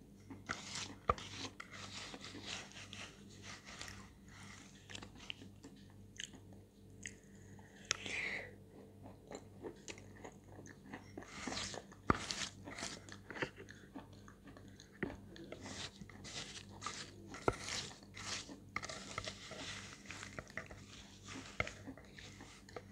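Quiet, close mouth sounds of chewing a wet chalk paste: irregular soft crunching and smacking, with a few sharper clicks as a spoon scoops from a glass bowl.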